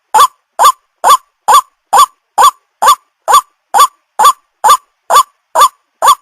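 White-breasted waterhen calling: a loud, harsh note repeated evenly a little over twice a second, each note rising and then hooking over. This is the bird's call used as a lure to draw ruak-ruak in.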